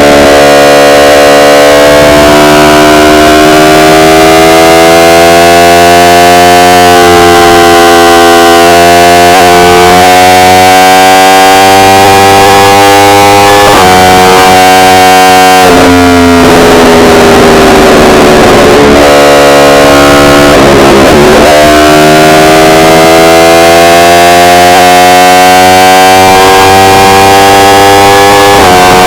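Yamaha R1 inline-four engine under way, its pitch climbing steadily under throttle and dropping sharply at gear changes, easing down in pitch in the middle before climbing again. The recording is loud and distorted.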